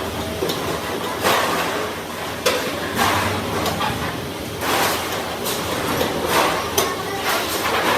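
Sheet-metal workshop noise: irregular knocks and clatter over a steady low machine hum.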